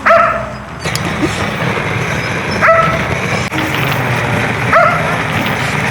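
A dog barking three times, short rising yips about two seconds apart, over a steady background hiss.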